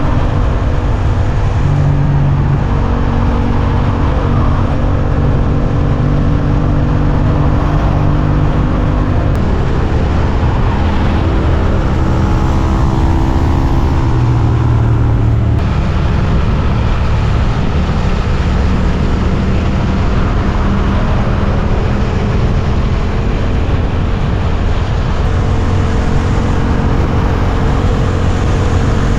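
Suzuki GSX-8S 776 cc parallel-twin engine running on the move, holding fairly steady revs with small shifts in pitch and a brief change in engine note about halfway through. A dense low rumble lies under the engine throughout.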